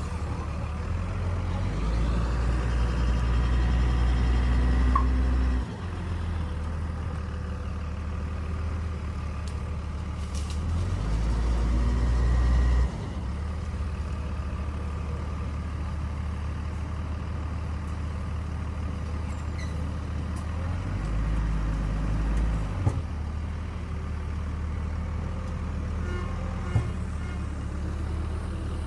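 Bulldozer's heavy diesel engine running, swelling under load three times as it works, with a couple of sharp metallic knocks near the end.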